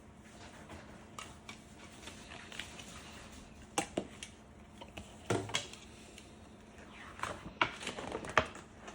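Scattered light clicks and knocks of small hard objects being handled, irregular and unevenly spaced, over a faint background hum.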